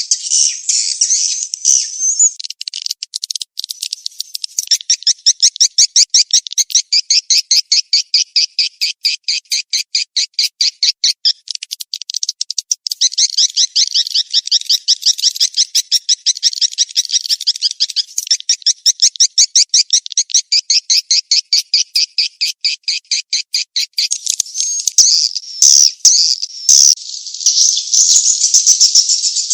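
Swiftlet calls played as a 'mating chase' lure call: long trains of rapid, dry chirping pulses, many a second. The trains break off briefly about twelve seconds in, and the last few seconds turn busier and more irregular.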